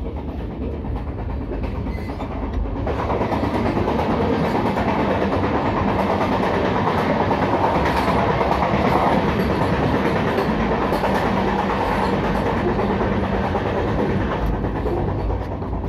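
Indian Railways passenger coach in motion: the steady running noise of the train on the track, growing louder about three seconds in and dropping back near the end.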